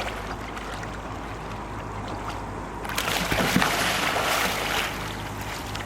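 Water splashing and rushing around a kayak as the paddler does a back deck roll, capsizing and rolling up with the paddle. The splashing swells about three seconds in, with a few low knocks, and eases off about two seconds later.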